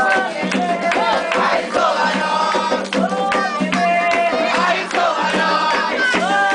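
Candomblé ritual music for Xangô: a group of voices singing a chant over steady drumming.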